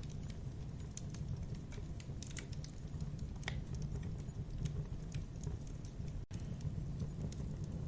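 Wood campfire crackling: irregular sharp snaps and pops over a steady low rumble of burning flames, with a momentary gap about six seconds in.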